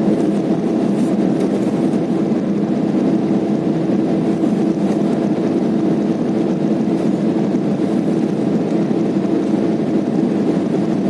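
Steady airliner cabin noise in flight: the even hum of the jet engines and rushing air heard from inside the passenger cabin, with no changes or separate events.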